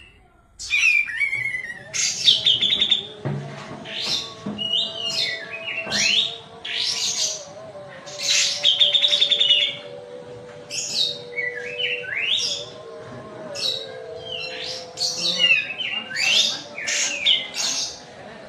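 A kapas tembak bulbul singing a fast, varied song: a continuous run of sharp chirps, upward sweeps and rapid trills with short gaps between phrases. A faint steady hum sits underneath.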